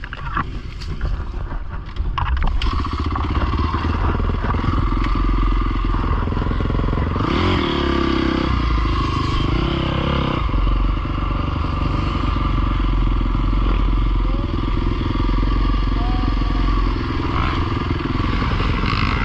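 Pit bike engine running under throttle, getting louder about two seconds in, with a shift in its note between about seven and ten seconds.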